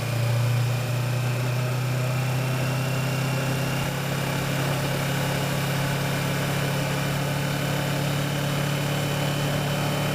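Kawasaki Versys motorcycle engine running at a steady cruising speed, a constant low drone with no change in pitch.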